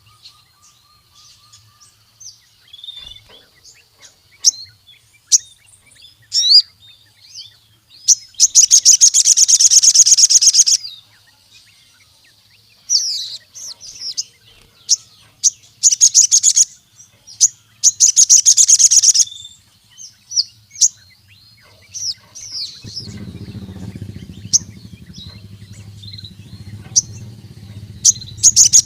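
Sogon, the ruby-cheeked sunbird, singing: scattered sharp high chirps broken by loud, rapid trills of one to two seconds, four of them in all. A faint low hum joins in about 23 seconds in.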